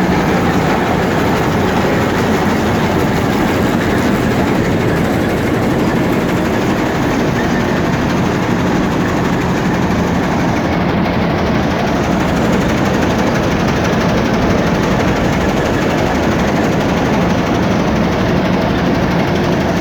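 Combine harvester fitted with a John Deere 820F soybean header, running at work: the engine and machinery make an even mechanical noise with a steady low hum throughout.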